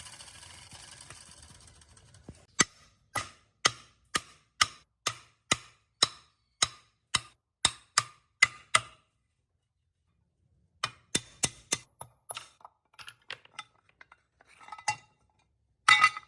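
A series of sharp, clinking clicks, about two a second and evenly spaced, for around six seconds. After a short gap comes a quicker run of clicks, then scattered softer ones and a louder clatter near the end.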